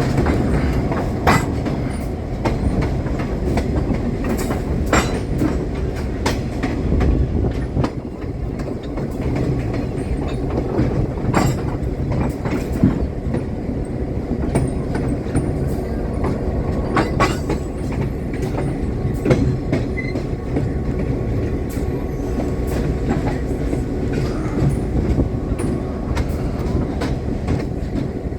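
Train rolling along the track: a steady low rumble with wheels clicking and knocking over the rail joints now and then.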